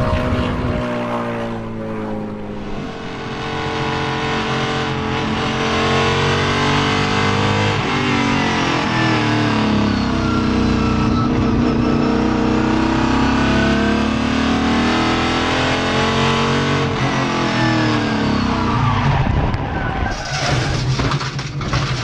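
Race truck engine running hard under load, its pitch climbing and dropping repeatedly as it accelerates and lifts, with tyre squeal. Near the end the steady engine note breaks up into a harsher, noisier sound.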